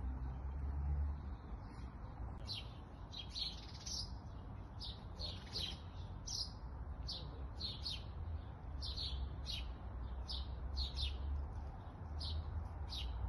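A small songbird calling: a long run of short, falling chirps, about two a second, starting a couple of seconds in, over a steady low rumble.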